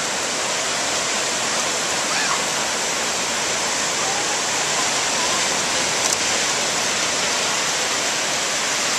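Ocean surf washing steadily on the shore.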